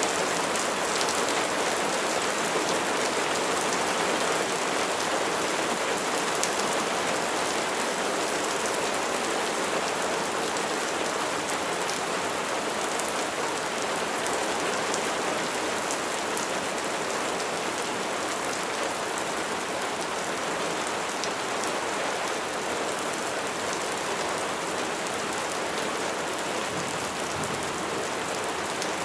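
Steady rain falling on a surface, a continuous hiss with individual drops ticking through it.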